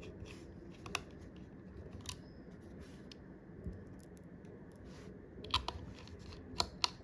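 Light, scattered clicks and taps of a precision screwdriver and small tools against an iPhone's frame and internals as a tiny screw is driven back in, more frequent near the end.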